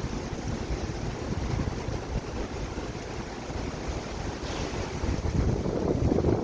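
Heavy storm rain with strong wind gusting against the microphone, growing a little louder about five seconds in.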